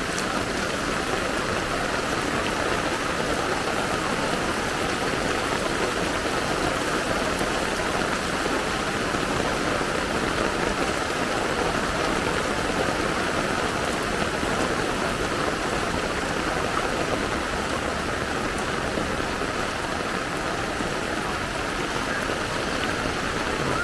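Steady hiss of heavy rain and rushing floodwater, unbroken and even throughout.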